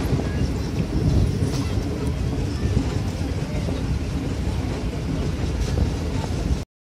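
Train running: a steady low rumble that cuts off suddenly near the end.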